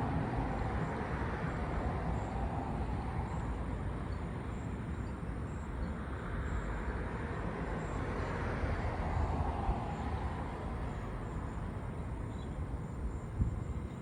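Distant road traffic: a steady rush of passing vehicles that slowly swells and fades, with a low rumble underneath.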